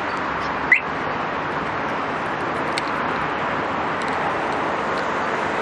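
Steady road traffic noise, with a brief sharp high chirp about a second in.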